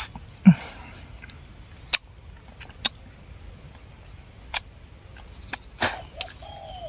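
Scattered sharp mouth clicks and smacks of someone chewing a honeycomb, about six separate clicks with pauses between them.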